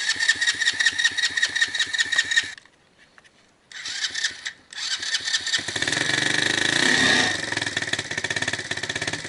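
Small 50cc quad ATV engine being cranked with a rapid, even pulsing for about two and a half seconds, then a short second try after a brief pause. About five seconds in it catches and keeps running, revs up briefly near the middle, then settles to a steady idle.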